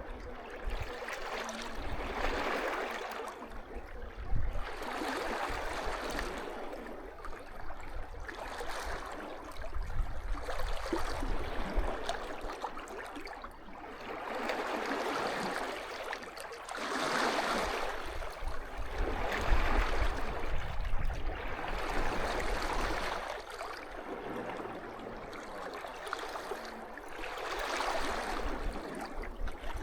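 Small sea waves washing onto the beach, a swell of rushing water rising and falling about every two to three seconds, with a low rumble underneath.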